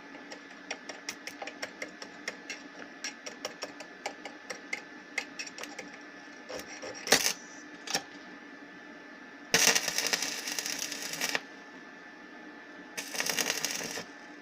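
Semi-automatic wire-feed welder striking its arc: a run of sharp irregular snaps and clicks as the wire touches without lighting, then two short arc flashes and two crackling tack-weld bursts of about two seconds and one second, over the inverter's steady hum. The arc lights poorly, which the welder puts down to a poor ground connection through a rusty tabletop.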